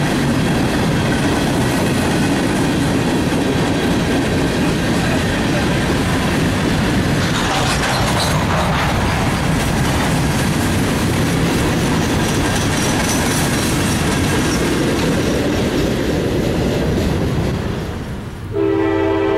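Freight train cars rolling past close by, steady loud wheel and rail noise, with a brief brighter hiss about halfway through. Near the end the sound cuts off and a locomotive horn starts blowing a chord of several held notes.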